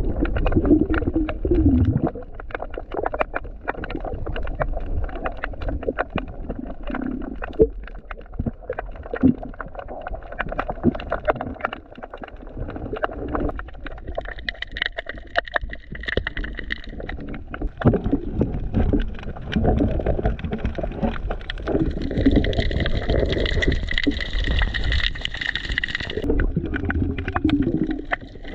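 Water gurgling and sloshing around a diver, with many sharp clicks and knocks over a low rumble. A steady high whine comes in twice, once mid-way and again near the end.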